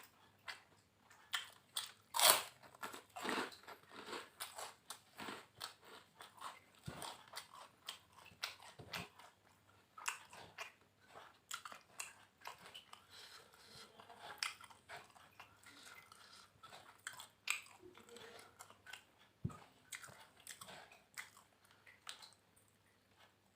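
Close-up chewing and crunching of a lalapan lele meal, fried catfish with raw vegetables: irregular crisp crunches and mouth sounds, the loudest crunch about two seconds in.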